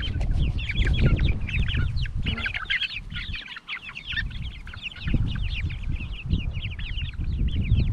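A flock of backyard chickens clucking and calling excitedly in a quick, overlapping chatter of short high notes as they scramble for scraps of old biscuit, over a low rumble.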